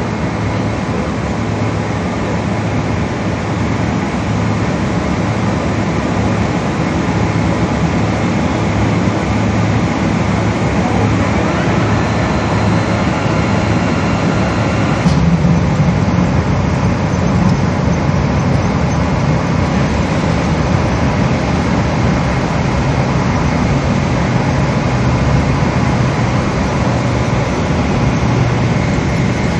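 Steady cabin noise of a Boeing 777 taxiing after landing: a low rumble from the jet engines and airflow, with a faint high whine that cuts off suddenly about halfway through, after which the rumble is a little stronger.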